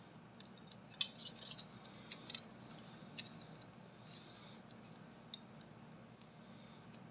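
Light metallic clicks and taps from small objects being handled, the sharpest about a second in, over a steady low hum.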